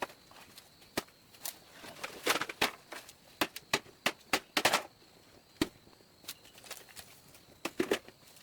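A series of irregular sharp knocks and taps, some with a brief ring after them.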